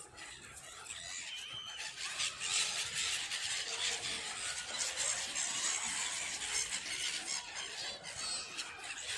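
A flock of birds calling all at once in a dense, high-pitched squealing chatter, typical of birds crowding in to be fed. It swells about two seconds in and stays busy.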